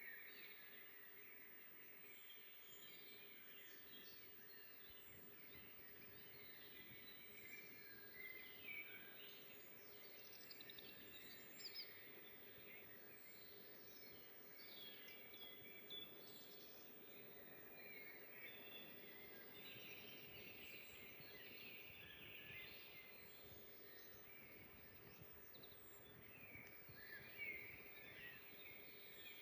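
Several songbirds singing and chirping faintly in a forest, with short calls and trills overlapping throughout over a soft background hiss.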